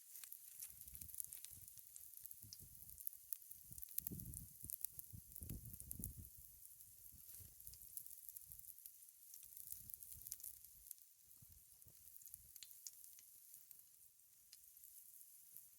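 Faint sizzling and fine crackling from pancakes frying in an oiled cast iron skillet over a campfire, with a few low rumbles about four to six seconds in.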